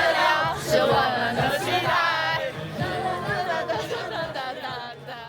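Music with several voices singing over a steady low note, fading out towards the end.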